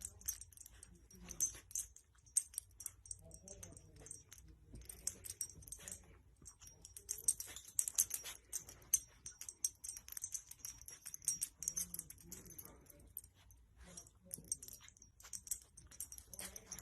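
Metallic jingling with many small clicks, coming and going in quick flurries.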